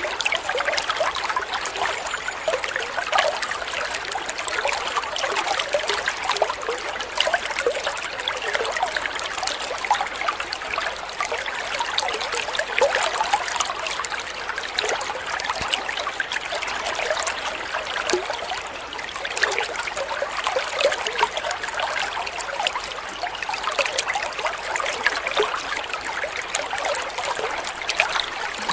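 Water trickling and babbling over stones in a small stream, steady and unbroken, with many small splashes and gurgles.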